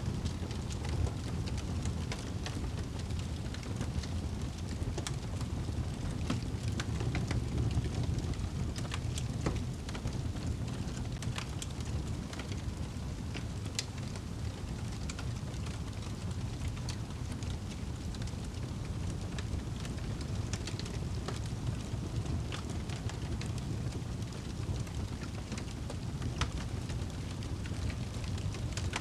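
Fireplace fire crackling: scattered sharp pops and snaps over a steady low rumble.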